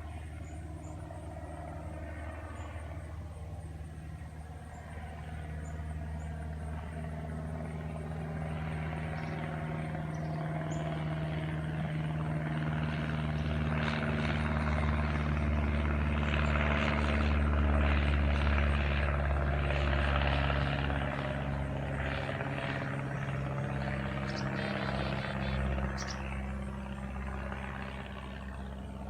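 Cessna light aircraft's engine and propeller during a low pass. It grows steadily louder to a peak a little past the middle, then fades as the plane goes by.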